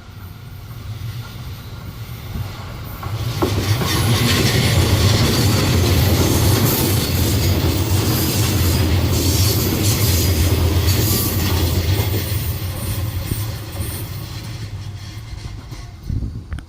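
E655 series 'Nagomi' electric train passing: the rail noise builds as it approaches, becomes a loud rush of wheels on rail with clickety-clack for about ten seconds, then fades away near the end.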